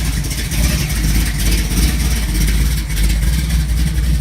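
Engine of a 1955 Chevy gasser running loud and close, with a low, fast-pulsing exhaust.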